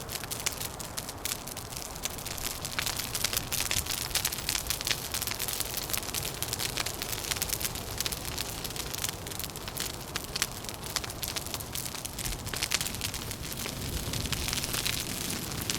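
Wood fire crackling with dense, continuous snaps and pops over a low, steady rumble.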